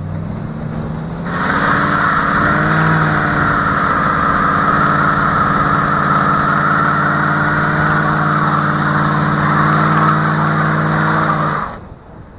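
Chevy 5.7-litre 350 V8 with a cat-deleted high-flow exhaust running under load: the engine note climbs a little about two seconds in, then holds steady alongside a loud steady hiss. It cuts off abruptly near the end.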